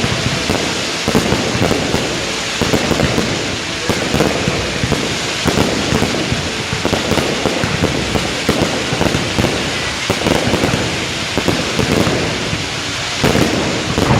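Fireworks going off in dense succession: a continuous rumble and crackle with many sharp pops.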